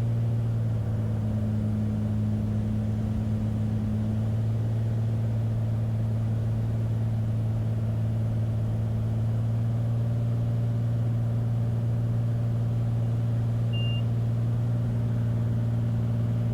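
Beechcraft Bonanza's six-cylinder piston engine and propeller droning steadily in the cockpit at approach power, with a short high beep near the end.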